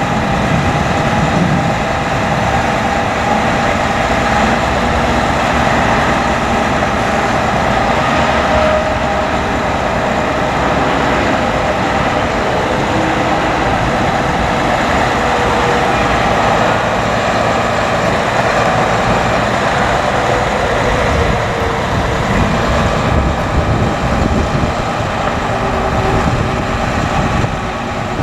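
2008 Hino 338 bucket truck's diesel engine running steadily while the Altec TA50MH boom is worked through its hydraulic functions, a dense steady mechanical hum with held whining tones over it.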